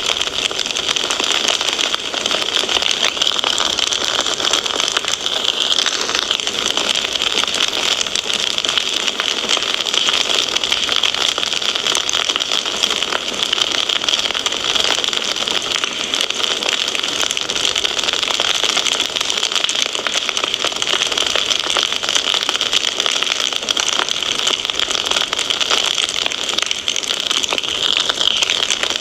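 Wood fire crackling steadily in a fireplace: a dense run of small pops and snaps over a constant hiss.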